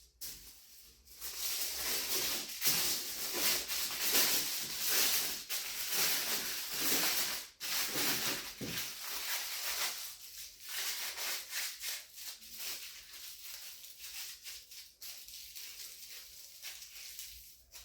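Hands crinkling and rustling crafting material being scrunched to fit a tube. The crackly rustle is dense for about the first ten seconds, then thins to lighter, scattered crackles.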